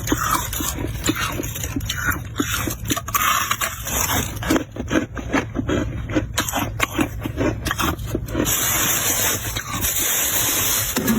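Slabs of ice crunching and cracking, many sharp cracks in quick succession. About eight seconds in, this turns into a steadier scraping hiss.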